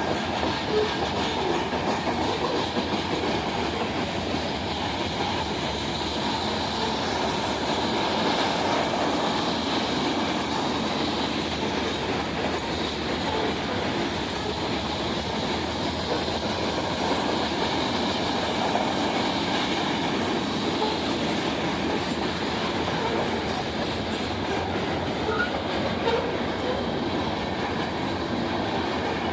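A train rolling by on the rails: a steady clatter of wheels over rail joints.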